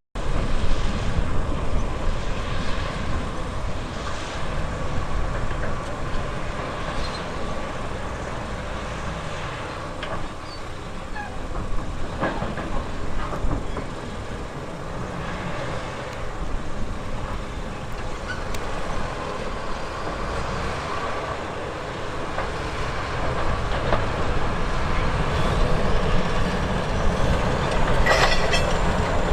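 Bulldozer working: its diesel engine runs steadily under load, with scattered metallic clanks from its steel tracks.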